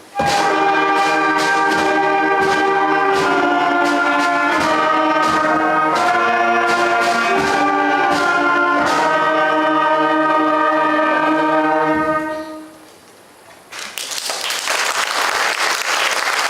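School concert band of woodwinds, brass and percussion playing the final bars of a piece with regular drum strokes, ending on a held chord about twelve seconds in. After a brief pause the audience breaks into applause.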